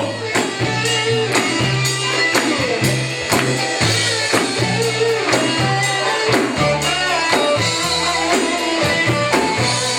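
Live band playing a song's instrumental intro: guitar lines over a bass line and drum kit with a steady beat.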